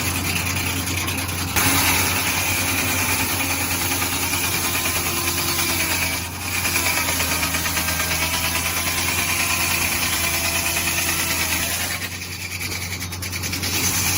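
Engine powering a Belsaw M14 portable sawmill, running steadily, with a few short dips in level.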